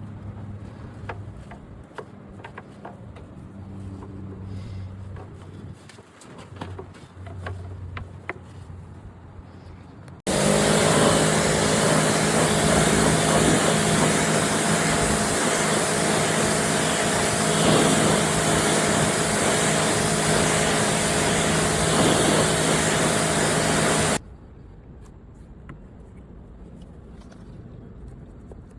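Pressure washer cutting in abruptly about ten seconds in and running steadily for about fourteen seconds, a loud spray hiss over a steady motor hum, then cutting off suddenly. Before it, only quiet handling clicks and a faint low hum.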